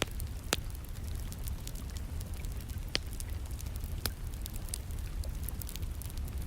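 Wood fire burning in a fireplace: logs crackling, with a few sharp pops, the loudest right at the start, and fainter ticks between. Under them runs a steady low rumble, with rain in the background.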